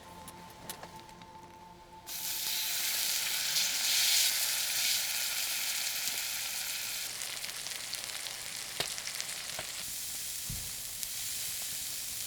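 Food sizzling in a hot pan, starting suddenly about two seconds in and holding steady, with a few sharp pops near the end.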